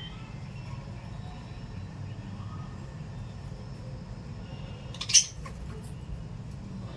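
A small pet parrot gives one short, loud squawk about five seconds in, over faint chirping and a steady low rumble.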